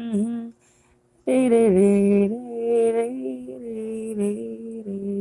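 A single voice singing long, wordless held "oh" notes with small dips in pitch, breaking off about half a second in and coming back in about a second later.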